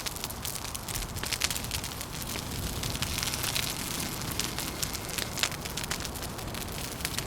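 Wood fire crackling with frequent small sharp pops, over a steady rush of wind that swells about three seconds in.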